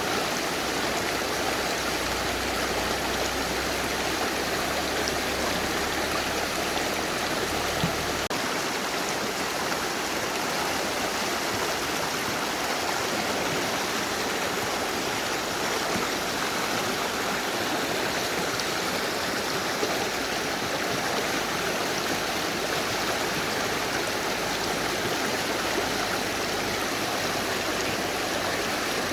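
Mountain river rushing steadily over rocks, a constant even wash of water noise with a few faint splashes.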